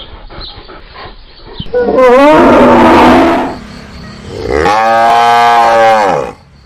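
Two loud, drawn-out animal calls, each lasting about a second and a half; the second rises and then falls in pitch.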